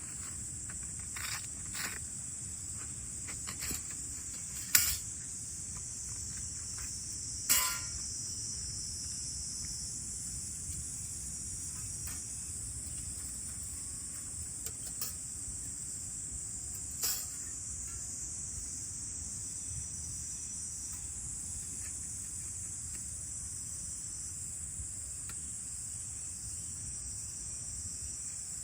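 Steady high-pitched insect chorus, crickets or similar, with a few sharp clicks, the loudest about five and eight seconds in.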